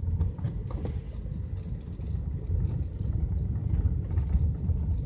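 Hyundai Elantra engine running at a steady raised idle while the car stands still, a low rumble. It is the cold-start fast idle, which climbs to about 1200–1500 rpm whenever the car stops before the coolant has warmed up, with no change in throttle position.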